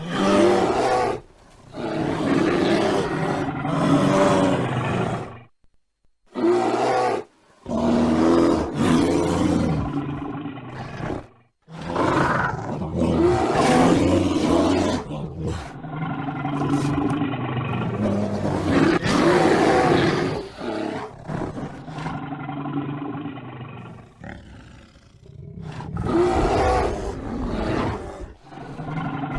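Bear growling and roaring in a string of separate recordings, loud and rough, broken by a few short silences where one clip ends and the next begins.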